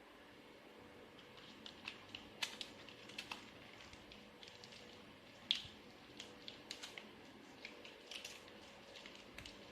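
Quiet eating sounds: soft, irregular clicks and smacks of chewing and small mouth noises. The sharpest click comes about five and a half seconds in.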